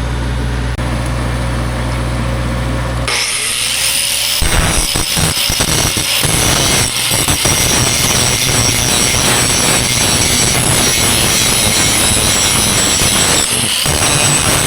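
An engine idles with a low hum; about three seconds in an angle grinder spins up with a rising whine and then works steadily on the steel around a cracked boom pin, a harsh high-pitched grinding noise, cleaning the area down before it is welded.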